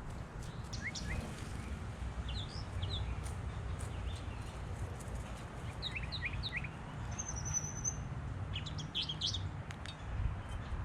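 Small birds chirping in short clusters of quick notes, with one high, even trill a little past the middle and a busier cluster near the end, over a steady low rumble.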